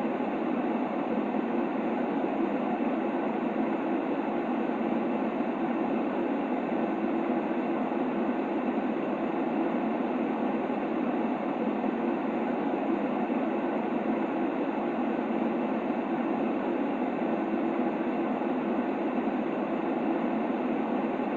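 Steady white noise for lulling a baby to sleep: an even, unbroken rushing hiss weighted toward the low-middle range, with no rhythm or changes.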